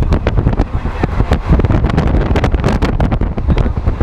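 Moving passenger train heard from an open doorway: a steady rumble with rapid, irregular clattering of the wheels on the rails, and wind buffeting the microphone.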